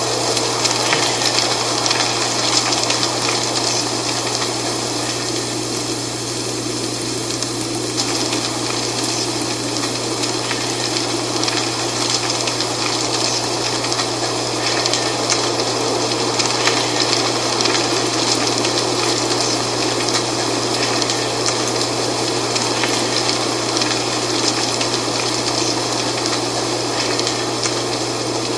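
Wind blowing through dry autumn leaves, the leaves rustling and crackling steadily, with a constant low hum underneath.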